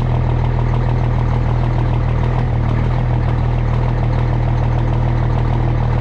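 Cummins ISX inline-six diesel in a straight-piped Peterbilt 379, idling steadily at a raised cold idle after a cold start, not yet idled down.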